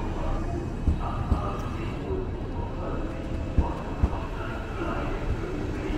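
A train rolling slowly past, its wheels knocking over a rail joint: two pairs of low thumps, each pair about half a second apart, over a steady rumble.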